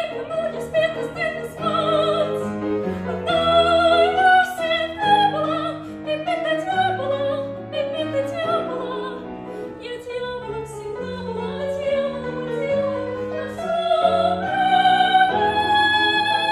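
Operetta singing: a high voice sings with vibrato over piano accompaniment, then holds a long high note near the end.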